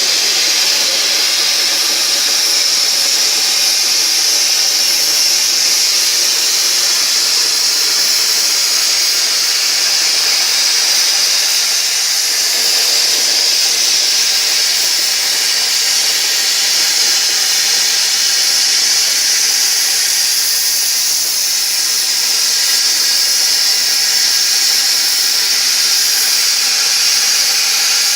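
100-amp plasma torch on a CNC pantograph cutting: a loud, steady hiss with a high-pitched whine on top.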